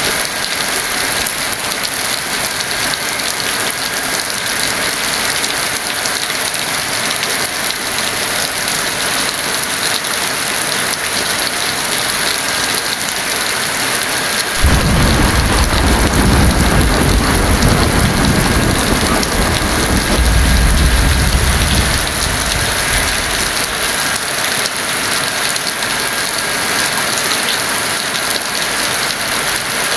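Heavy rain falling steadily. About halfway through, a roll of thunder starts suddenly and rumbles low for about eight seconds before fading back under the rain.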